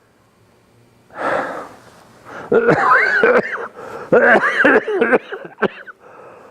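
A man's wheezing coughing fit: a sharp breath about a second in, then a run of hoarse coughs and wheezing gasps whose pitch rises and falls.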